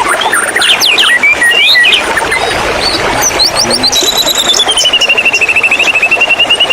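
White-rumped shama singing: quick varied whistles and chattering notes, then, from about four seconds in, a long rapid trill that slides down a little in pitch and levels off. Under it runs a steady rushing background of water.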